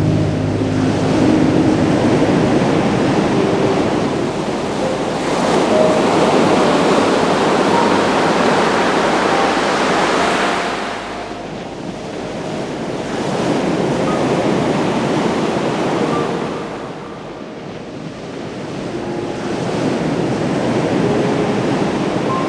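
Ocean surf breaking on a shore in slow swells, each wave building and washing back over several seconds, with a few faint short tones scattered through it.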